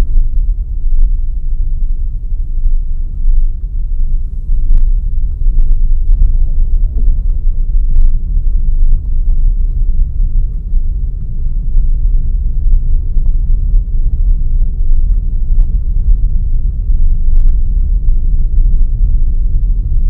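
Car driving along a forest road: a steady low rumble of engine and road noise, with a few sharp clicks or knocks scattered through it.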